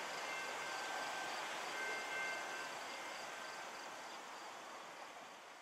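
Tail end of a long freight train rolling away on the rails, its wheel-on-rail noise fading gradually, with faint thin high whines over it in the first half.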